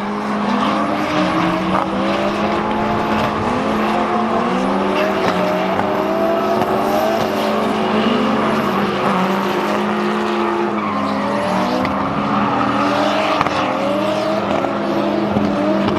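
Several drift cars' engines revving up and down at high rpm, overlapping, over a continuous haze of tyre noise and squeal from cars sliding on track.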